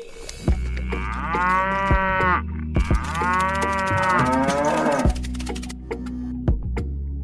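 A cow mooing twice in two long calls, over a steady low hum and a few clicks.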